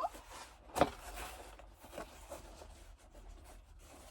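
Handling noise while unpacking a boxed phone gimbal: light rustling and scraping of the packaging, with a sharp knock about a second in and a couple of softer ticks after it.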